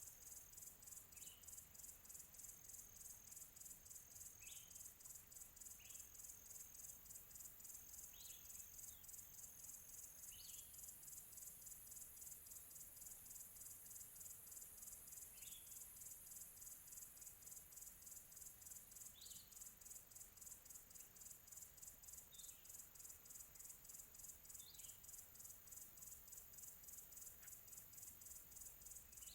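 Faint nature ambience: a steady, high, fast-pulsing trill of insects, with short bird chirps scattered every couple of seconds, about ten in all.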